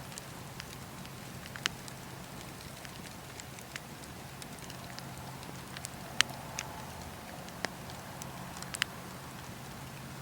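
Campfire crackling: sharp, irregular pops and snaps from the burning wood, the loudest about six seconds in, over a steady low background.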